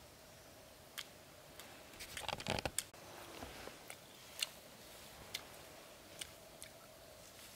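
Close eating sounds: a person biting and chewing grilled food pulled from a skewer, with sharp crunchy clicks about once a second and a denser burst of crunching about two seconds in.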